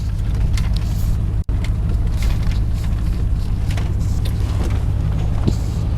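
A car driving, a steady low rumble of engine and road noise, with a momentary break in the sound about one and a half seconds in.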